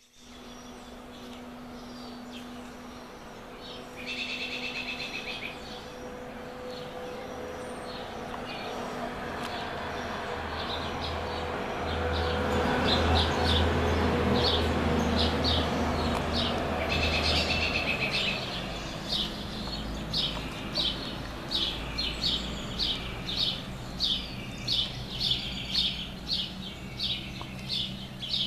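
Dawn songbirds singing: a fine trill about four seconds in, then a steady run of sharp repeated chirps, about one and a half a second, through the second half. Underneath, a low rumble swells through the middle and is the loudest sound before fading.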